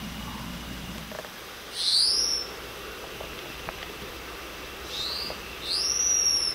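A bird calling: high, clear whistled notes that sweep upward and level off, one about two seconds in and a short one followed by a longer one near the end.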